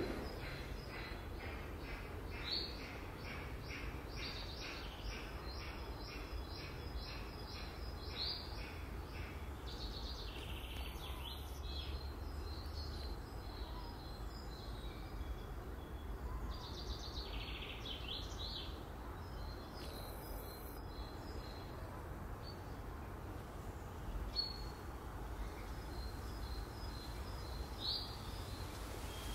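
Small birds chirping over a steady low background hum: a quick run of repeated high chirps for the first several seconds, then scattered calls and a few sharp falling notes.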